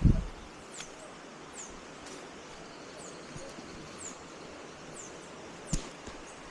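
Outdoor forest ambience: a steady background hiss with a high, short chirp falling in pitch about once a second, and two dull thumps, a loud one at the very start and a smaller one near the end.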